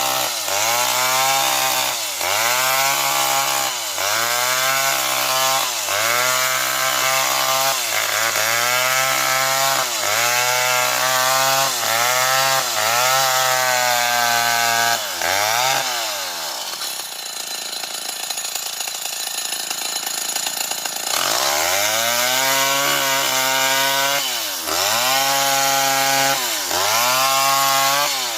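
Old Stihl 070 two-stroke chainsaw cutting a tree. The engine dips in pitch and recovers about once a second as it loads up in the cut. About halfway through, the engine sound falls away to a quieter hiss for a few seconds, then the saw comes back with the same dipping pattern.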